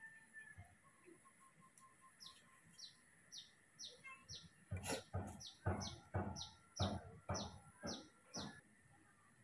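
A bird calling over and over with short, high, downward-sliding whistled notes, about two a second, starting a couple of seconds in. From about halfway, a run of louder soft thumps at much the same pace joins it.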